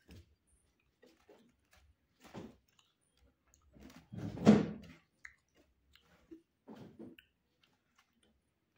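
A person chewing a mouthful of rice and crisp papad eaten by hand, with scattered short crunches and mouth noises and one louder burst about halfway through.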